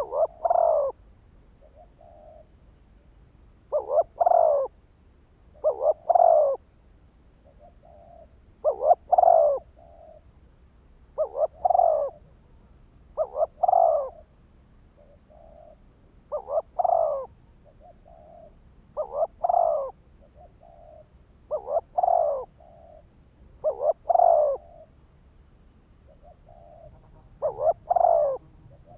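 Spotted dove cooing over and over, a decoy bird's call for luring wild doves. A phrase of a couple of quick notes and a stronger falling coo comes about every two seconds, with softer short coos in between.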